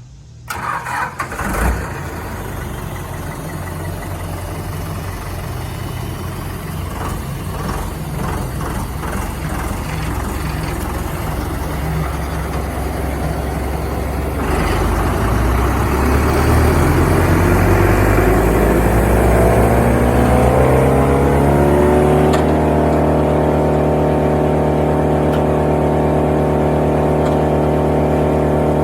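Morbark Tornado wood chipper's engine starting about a second in and idling, then throttling up: its pitch rises for a few seconds and then holds steady at high speed.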